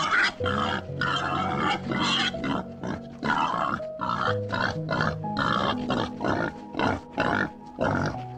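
Domestic pigs grunting in a quick run of short calls, about two or three a second, over soft piano music.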